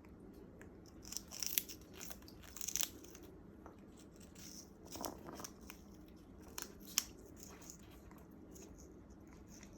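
African grey parrot's beak biting and tearing fibrous sugarcane: scattered crisp snaps and ripping crunches, with the sharpest snaps about a second and a half in and near seven seconds.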